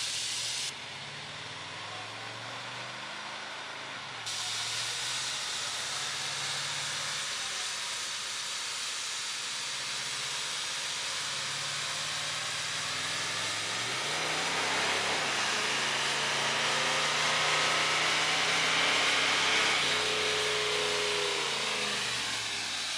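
Pontiac Turbo Trans Am's turbocharged 301 V8 running on a chassis dyno under a steady hiss. The engine note drifts up and down, building gradually in the second half and easing off near the end.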